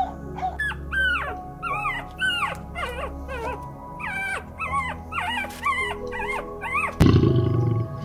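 A quick run of short, high, falling whimpers and squeaks from dogs, about three a second, over faint background music. About seven seconds in, a lion's loud rough growl cuts in suddenly.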